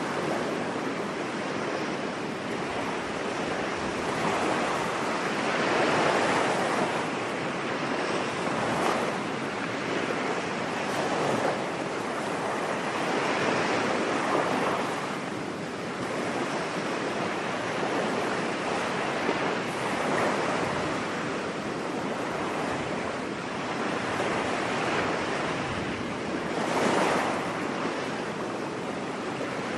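Ocean waves breaking on a beach, a steady wash of surf that swells and falls back every few seconds.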